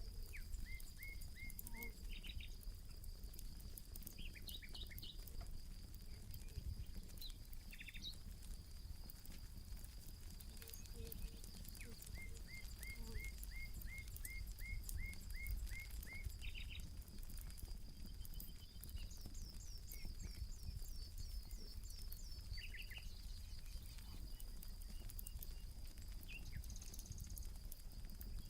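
Birds calling in runs of short repeated chirps over a steady high-pitched drone, with the light, scattered crackle of a burning campfire throughout.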